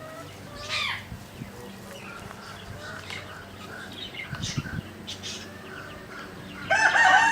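Assorted short bird calls and chirps. Near the end, a rooster starts crowing loudly, one long drawn-out crow.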